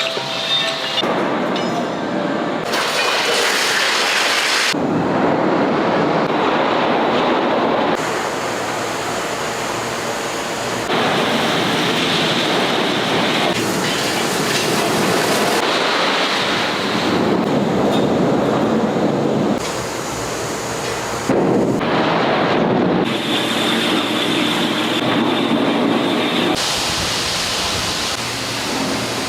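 Loud industrial machinery and furnace noise in a steel works: a steady rushing, rumbling din whose character changes abruptly every few seconds.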